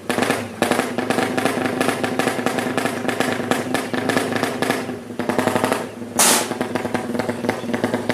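High-compression drag-tuned Yamaha Jupiter engine running hard on an open exhaust, a rapid firing rattle held at steady revs with brief dips, and a loud sudden burst about six seconds in.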